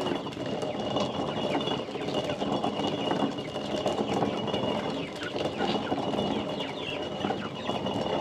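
Hand-turned stone mill grinding dry corn kernels: a continuous gritty crunching and grating as the stone turns, with birds chirping and a steady high tone above it.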